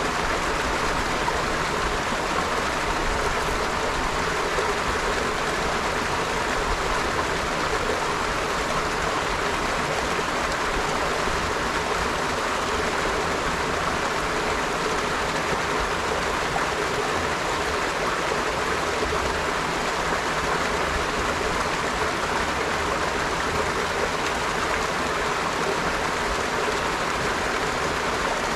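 River water flowing steadily over stones, a continuous even rush of running water.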